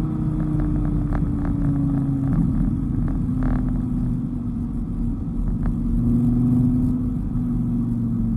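Dodge Viper GTS's V10 engine running at road speed, its note sagging slowly over the first couple of seconds and then holding fairly steady with small rises and falls, over rumbling tyre and road noise.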